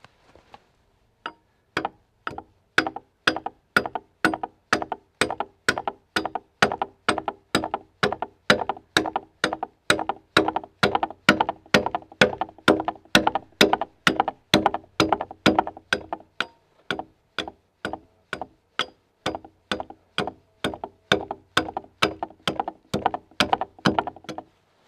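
Axe chopping into a pine log in a steady rhythm, about two to three blows a second, each a sharp crack with a brief wooden ring: cutting the cog (overcut) into a log-wall corner timber.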